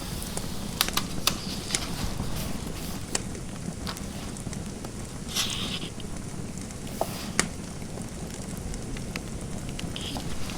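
Fireplace fire crackling, with irregular sharp pops over a steady hiss. A brief scratchy sound comes a little past the middle.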